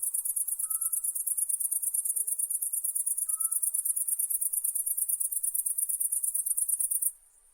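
Night insects trilling in a high, fast, evenly pulsed chorus that cuts off abruptly near the end. A faint short call sounds twice in the background.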